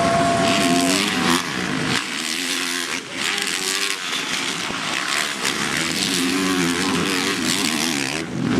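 Motocross bike engines on the track revving, their pitch rising and falling as the throttle opens and closes.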